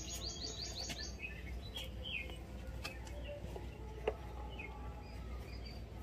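Birds chirping: a rapid run of high, repeated rising notes that stops about a second in, then scattered faint chirps. One sharp click about four seconds in.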